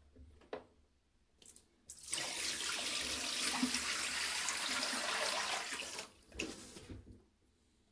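Water sound effect: a brief splash, then about four seconds of water gushing steadily like a tap or pour into a basin, ending with a few trailing splashes before it stops.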